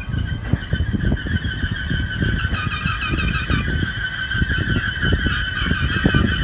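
Brightline Siemens Charger diesel-electric locomotive rolling slowly past at close range: a low rumble with a high, wavering metal squeal from the wheels that sets in right at the start and keeps on, typical of a train braking or rounding track at low speed.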